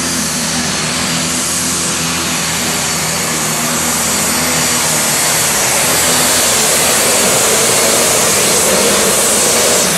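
Super stock diesel pulling tractor under full power on a pull, a loud steady engine-and-turbocharger noise with a high whine, growing slightly louder in the second half.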